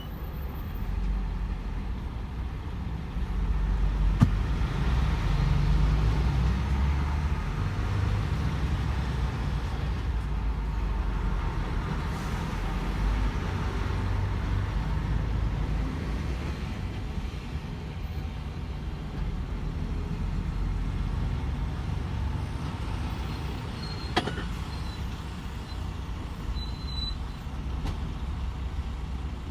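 DAF XF 510 truck under way: a steady low engine drone and road rumble, heavier for a few seconds near the start. Two short sharp clicks, one about four seconds in and one near the end.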